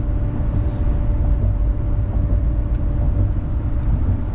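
Steady low rumble of engine and road noise inside a motorhome cabin while driving, with a faint steady hum above it.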